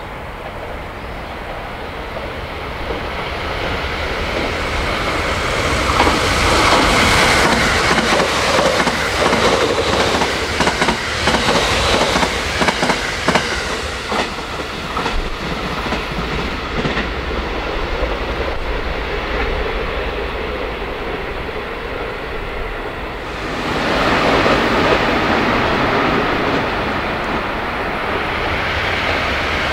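JR West 681-series limited-express electric train passing through a station, its rushing noise building and then a rapid clickety-clack of wheels over the rail joints. About 23 seconds in, the sound changes suddenly to the steady rush of a 683-series train approaching.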